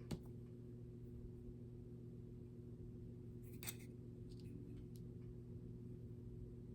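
Quiet room with a steady low electrical hum, broken by a small click at the start and a brief rustle with a few light ticks about three and a half to five seconds in, from craft materials such as moss being handled and pressed onto a small wooden birdhouse.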